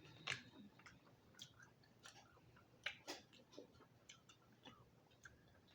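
Faint eating sounds: a person chewing lobster meat, with scattered small irregular clicks.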